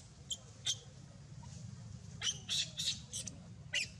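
Baby Barbary macaque crying in a series of short, high-pitched squeals. There are two about half a second apart early on, then a quicker run of calls in the second half, the distress calls of an upset infant.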